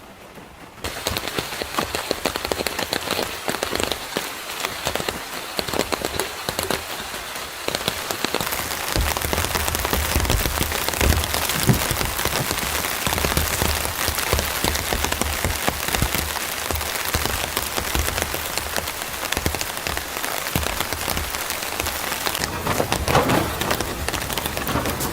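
Rain falling steadily, a dense hiss of many small drop hits. It starts suddenly about a second in and gets louder around eight seconds in.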